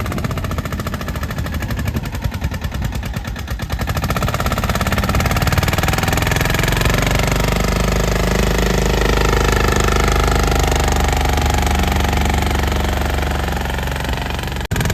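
Small diesel tractor engine running with a rapid, even beat, louder and steadier from about four seconds in, with a momentary dropout near the end.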